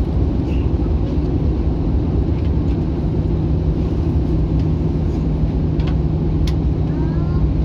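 Steady cabin noise aboard an Airbus A321-200 in flight: an even rush of airflow and engine drone with a steady low hum underneath.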